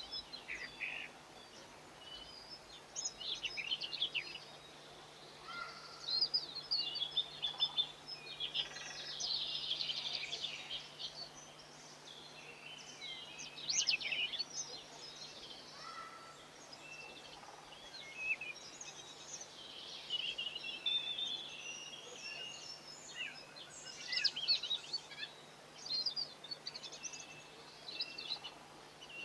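European goldfinches twittering, a busy, continuous run of short, high chirps and trills that come in louder clusters now and then.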